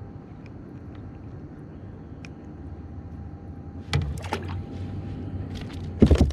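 Knocks and bumps on a plastic kayak hull as a small redfish is handled on board: a quick cluster of knocks about four seconds in, then one loud thump near the end, over a steady low rumble.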